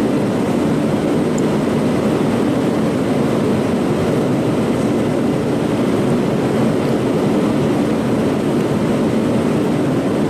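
Steady cabin noise inside a Boeing 787 airliner in flight: an even, unchanging rush of engines and airflow, heaviest in the low-middle range.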